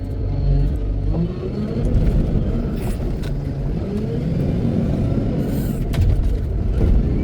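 Heavy diesel engine of earthmoving machinery running and revving up and down under load, with a few short metallic clanks.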